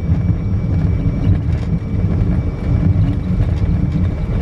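Fokker F100 jet on its takeoff roll at takeoff thrust, heard in the cockpit: a loud, steady low rumble of the wheels on the runway and rushing air, with a thin steady high tone over it.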